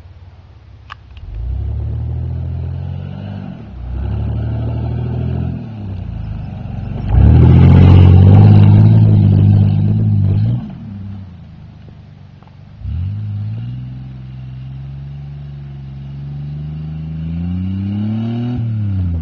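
Chevrolet Blazer's 4.3-litre V6 revved hard in repeated bursts as the truck drives through snow. The loudest rev comes about seven seconds in as it passes close, and a long rev climbs steadily from about thirteen seconds and drops off near the end.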